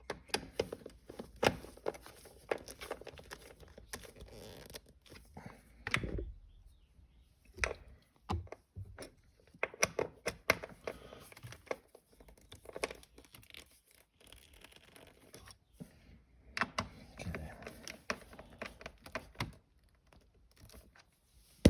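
Irregular clicks, knocks and rustling of hand tools and parts being handled while 10 mm nuts on a car's shifter assembly are fitted and tightened, with bumps against the microphone.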